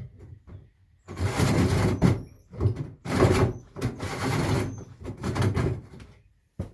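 A cutting tool working through material in four noisy passes, each from about half a second to a second and a half long.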